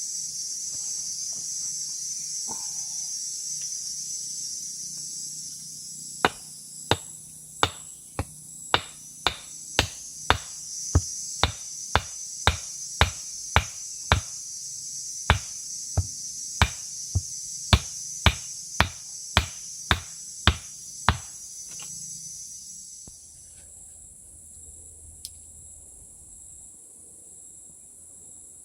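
A steady high-pitched insect chorus, over which about two dozen sharp, evenly spaced knocks come at roughly two a second, from about six seconds in to about twenty-one seconds in, like something being struck with a hammer or blade. The insect chorus drops away near the end.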